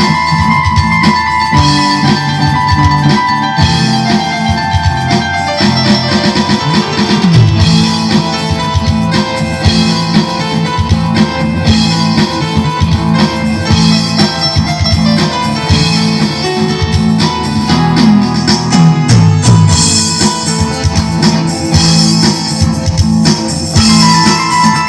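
A band playing instrumental music loudly and continuously, with sustained notes over a steady beat and no singing.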